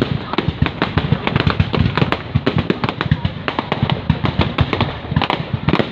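Fireworks display: a rapid, continuous barrage of sharp bangs and crackles, several a second.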